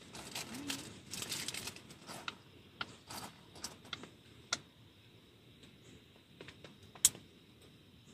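Irregular light clicks and taps, scattered and uneven, with one sharp click about seven seconds in.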